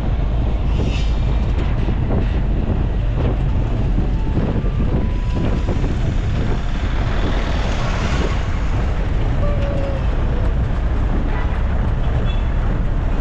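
Steady rumble of a moving vehicle heard from inside, with wind noise on the microphone.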